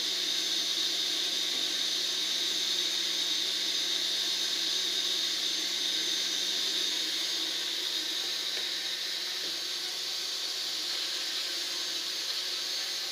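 Small DC motor running steadily, a high whine over an airy hiss, with a slight shift in its low hum about nine seconds in.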